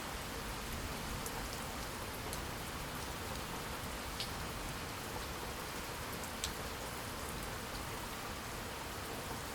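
Steady rain falling, an even hiss with scattered individual drops ticking close by; two of the drop ticks, about four seconds in and again near six and a half seconds, stand out.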